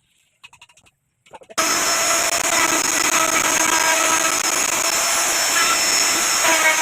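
Electric wood router running and cutting into wood, a loud steady machine sound with a high whine. It comes in suddenly about a second and a half in, after a few faint clicks.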